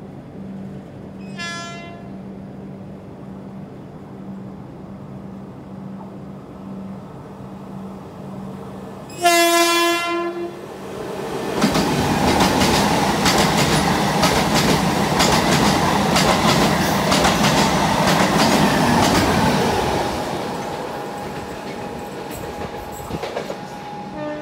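Electric locomotive horn, a short toot and then a louder blast of about a second, followed by a train passing close at speed. The passing train makes a dense rushing noise with rapid wheel clicks, which fades away over the last few seconds.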